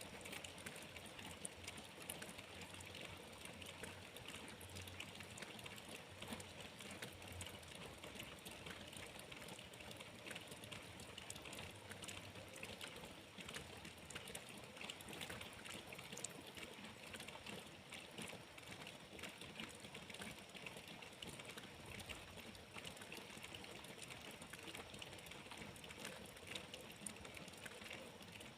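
Steady rain, a dense patter of small drops ticking without letup.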